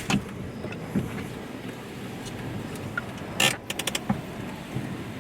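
Steady rush of dust-storm wind heard from inside a car cabin with the windows up. Scattered sharp knocks and clicks come through it, the loudest about three and a half seconds in, followed at once by a quick run of about five clicks.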